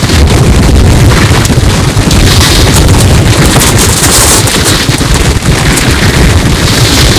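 Loud, heavily distorted roar of wind buffeting a microphone during a tornado, with low rumbling and crackling, run through stacked audio effects.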